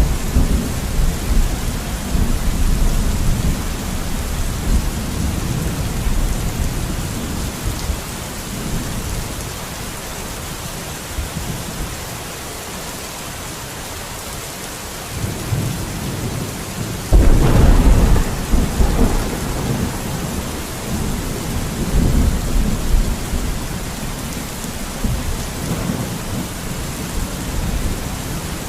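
Steady rain with rolling thunder. The rumbles fade into a quieter stretch, then a sudden loud peal comes about halfway through, and smaller rumbles follow.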